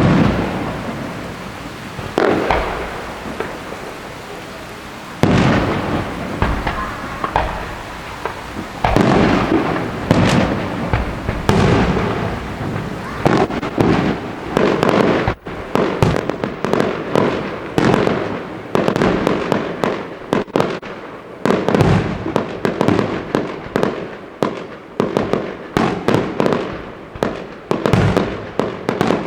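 Fireworks display: shells bursting with loud bangs and trailing crackle, a few separate bursts at first, then a rapid, dense string of explosions through the second half.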